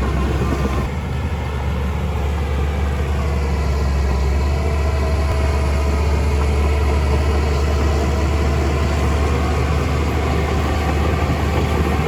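Heavy construction machine's engine running steadily with a deep, even drone.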